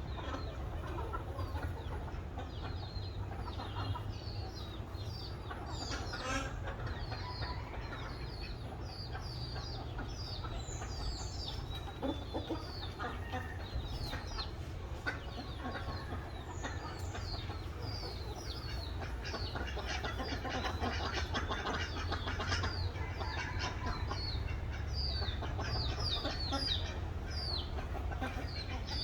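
Birds chirping: many short, high, falling chirps, several a second, over a steady low rumble.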